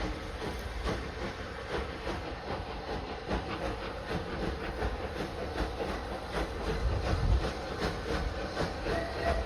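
Train running on the rails: a low rumble with repeated wheel clicks over the rail joints, the rumble growing a little louder partway through.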